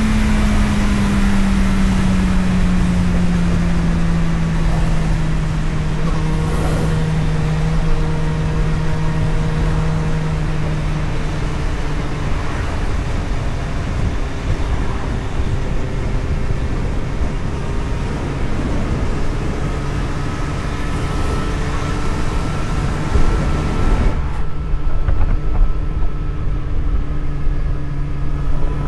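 Onboard sound of a road vehicle driving: an engine hum over road and wind noise. The engine note falls steadily over the first ten seconds or so, as when easing off, then holds steady. Near the end the hissing wind noise drops away sharply while the engine goes on.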